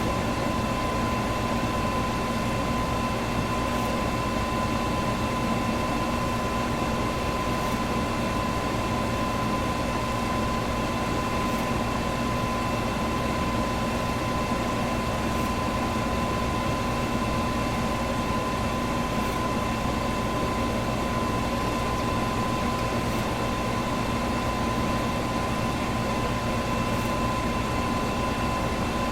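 Electric box fan running steadily, a constant whooshing rush of air with a steady motor hum and a clear tone riding over it. A faint high tick recurs about every four seconds.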